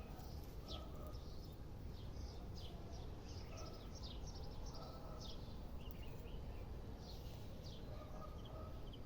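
Small birds chirping faintly, a few short high downward chirps each second, over a steady low background noise.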